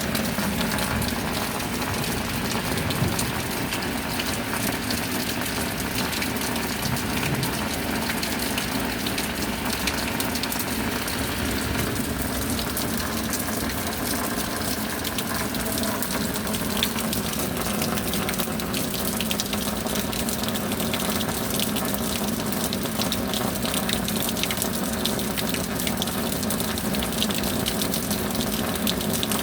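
Steady rain falling, a continuous hiss of water with many small drop ticks through it.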